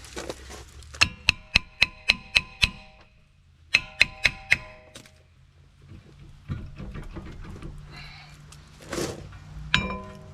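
Hammer blows on a brake rotor seized to the wheel hub, each strike ringing like a bell: about seven quick blows a second in, four more around four seconds, and another couple near the end. The strikes are knocking the rust-seized rotor loose from around the hub's centre ring.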